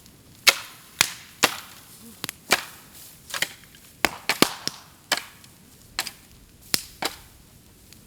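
Bamboo burning on a bonfire, cracking and popping sharply more than a dozen times at irregular intervals as heat bursts its hollow stems.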